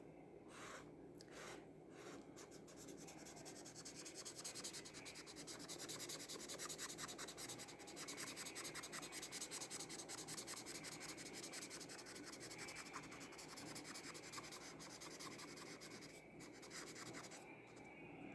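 Faint scratching of an acrylic paint marker nib across mixed media paper in quick repeated strokes, colouring in an area.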